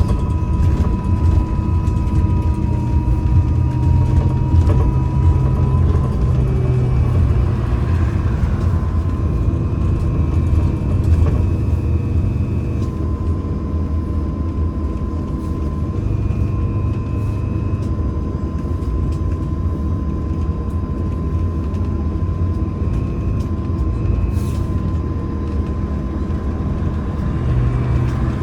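MAZ-203T trolleybus riding, heard from inside the passenger cabin: a continuous low rumble with a steady high whine, and a fainter higher tone that comes and goes.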